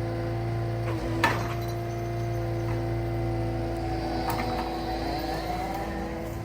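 A Cat 299D2 skid steer's diesel engine running steadily, with a sharp wooden or metal knock about a second in and a smaller one about four seconds in.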